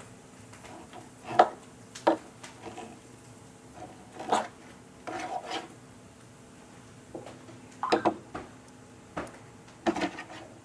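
Cutlery and dishes clinking and scraping: a dozen or so sharp clinks and short scrapes at irregular intervals, over a faint steady hum.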